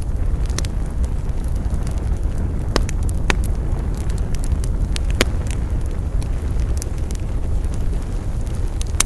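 Wood fire burning with a steady low rumble and scattered crackles, with a few sharper pops about three and five seconds in.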